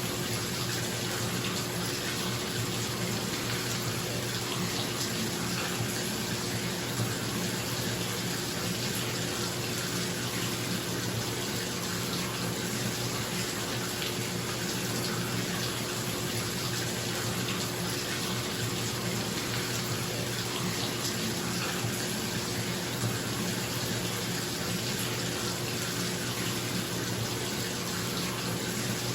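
Bathtub filling from the tap: a steady splashing hiss of water pouring into the tub, over the low, steady hum of a bathroom exhaust fan.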